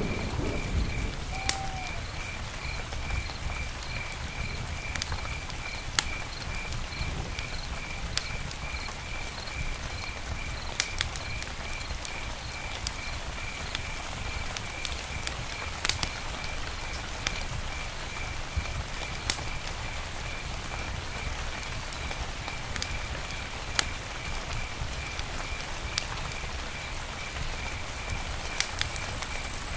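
Campfire burning, with a steady crackle and scattered sharp pops. Behind it, a high chirp repeats evenly, about four times a second.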